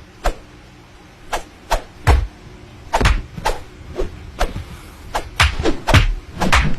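A series of irregular knocks and thuds: about a dozen short, sharp impacts at uneven intervals, coming thicker in the second half.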